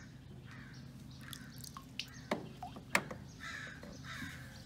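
Birds calling in harsh bursts, with two sharp clicks a little past the middle, over a steady low hum.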